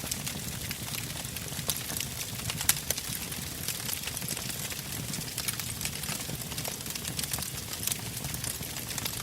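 Wood campfire crackling: many small, irregular pops and snaps over a low, steady rumble of flames, with one louder snap a little under three seconds in.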